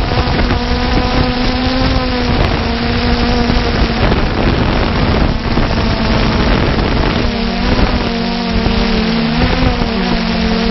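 Multirotor drone's propellers whining steadily, their pitch wavering slightly; a second close tone joins about seven seconds in as the motors run at different speeds. Heavy wind noise on the microphone.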